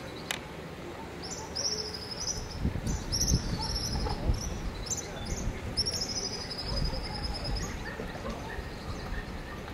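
A bird singing: a run of short, high trilled phrases repeated for several seconds, over low rumbling.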